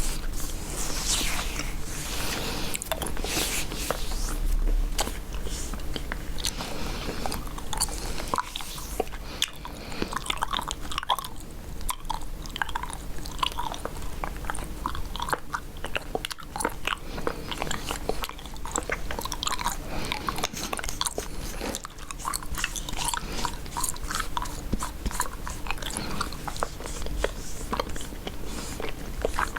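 Gum being chewed close to the microphone: a steady run of irregular wet clicks and smacks from the mouth.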